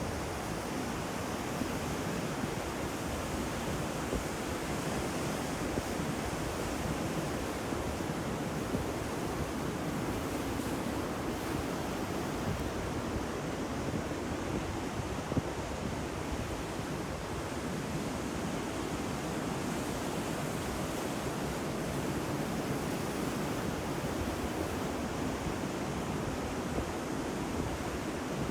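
Ocean surf: a steady, even wash of breaking waves, with a brief faint click about halfway through.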